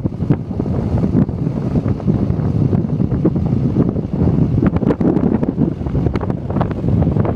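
Strong wind buffeting the microphone, a loud rough rumble with irregular crackles.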